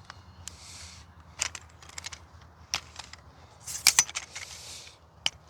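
Scattered sharp clicks and short rustles of close handling, with a quick cluster of the loudest clicks about four seconds in.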